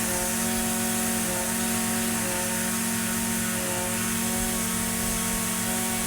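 Echo SRM-2620 string trimmer's small two-stroke engine running at a steady speed.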